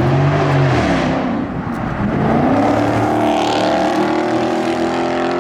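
Dodge Scat Pack's 6.4-litre HEMI V8 with a loud aftermarket exhaust, revving up and easing off, then climbing again about two seconds in and holding at high revs.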